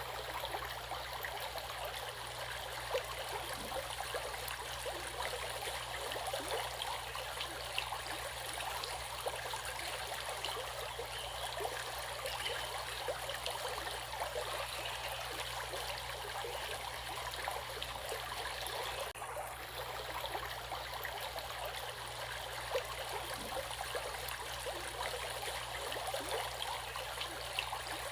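Flowing stream water: a steady, continuous babble of small splashes and trickles. It briefly dips about 19 seconds in.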